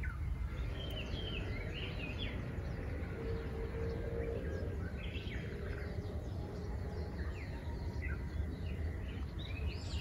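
Wild birds chirping here and there in short, scattered calls over a steady low outdoor rumble.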